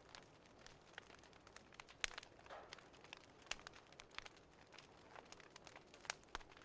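Wood fire crackling softly, with irregular sharp pops, the loudest about two seconds in and another near the end.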